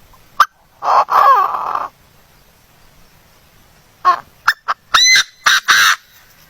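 Bird calls: a wavering call lasting about a second near the start, then a quick run of short, sharp calls near the end.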